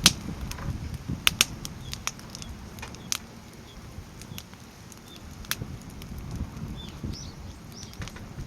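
Crib-stacked firewood burning: irregular sharp pops and crackles over a low rumble of flame, the loudest pops just after the start and around a second in.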